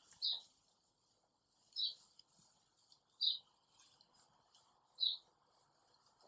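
A small bird chirping four times, each a short high chirp about a second and a half apart, over the faint rubbing of a cloth wiping a whiteboard.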